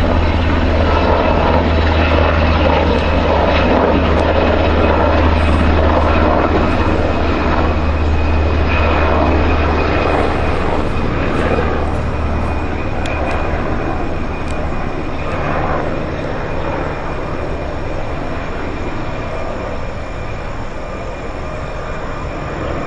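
Sikorsky UH-60 Black Hawk helicopter flying past, its rotor hum and turbine whine continuous. Loud at first, with the deep rotor drone dropping away about eleven seconds in, then slowly fading.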